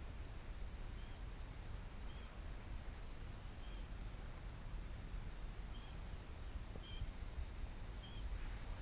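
Quiet lakeside ambience: a small bird giving short high chirps about once a second, at irregular spacing, over a steady high hiss and a low rumble.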